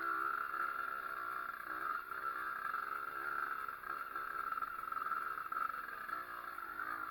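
Pit bike's Zündapp engine running, its speed wavering up and down.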